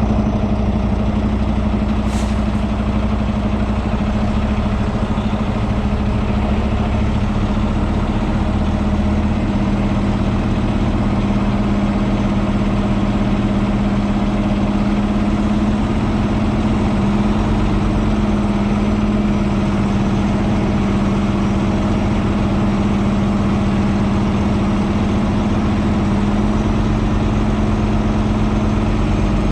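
Semi truck's engine running steadily, a constant low drone, with a single brief click about two seconds in.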